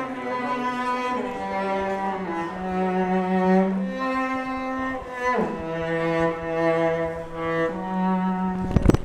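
Slow background music led by bowed cello or low strings, long held notes that change pitch every second or two, with a sharp click near the end.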